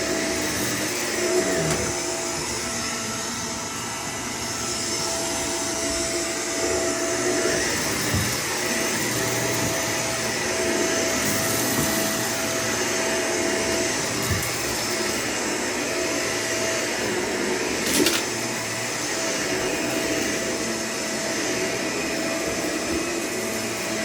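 Vacuum cleaner running steadily with a held whine, with a few sharp clicks, the loudest about eighteen seconds in.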